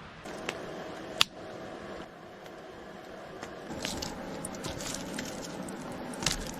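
Small campfire burning, crackling with scattered sharp pops, one loud pop about a second in and denser crackling in the second half.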